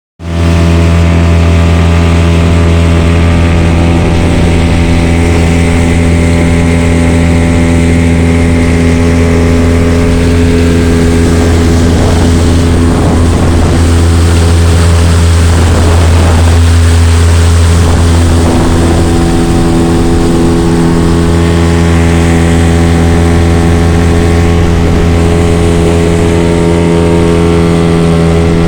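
Engine running steadily at one constant speed during its break-in (running-in) run, an even drone with little change in pitch.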